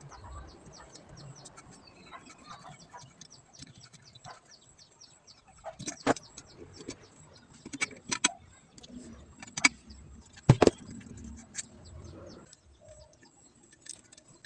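Metal tools clicking and knocking on an engine's valve gear during valve adjustment. A fast run of faint ticks carries through, with a handful of louder sharp knocks in the middle.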